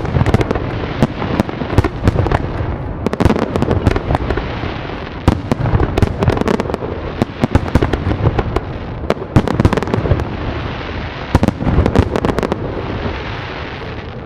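Fireworks going off: dense crackling cracks and pops over a continuous low rumble of booms, in several waves of rapid crackle. It begins to die away near the end.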